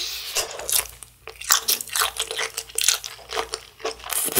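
A bite into a juicy kielbasa sausage, followed by chewing: a rapid, irregular run of short crunchy, wet mouth sounds.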